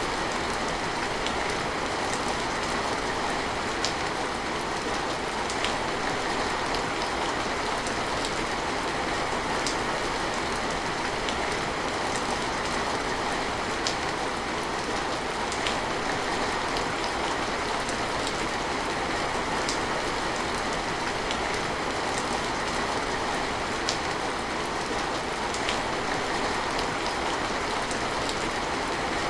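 Steady rain falling, an even hiss with scattered sharper drip ticks.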